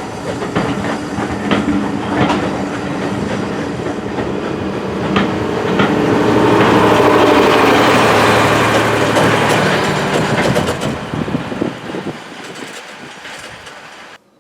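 A train passes, its wheels clicking over the rail joints. It grows louder to its loudest about seven or eight seconds in, fades away, then cuts off abruptly just before the end.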